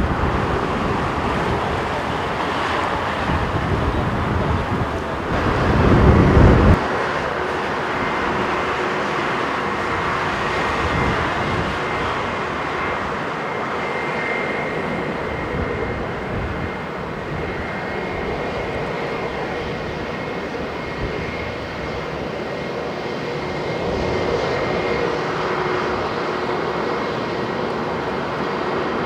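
Jet airliner engines running with a steady rush and a faint high whine. Strong wind gusts buffet the microphone, loudest about six seconds in.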